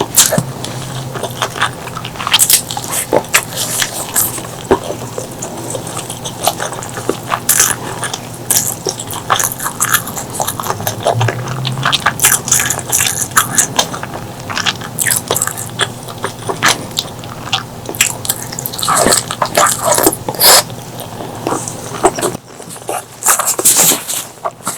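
Close-miked eating of spicy pork leg curry and rice: chewing and biting with frequent irregular wet smacks and clicks, easing into a brief lull near the end.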